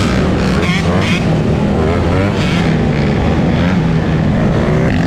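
Motor vehicle engine running steadily, with some voices over it.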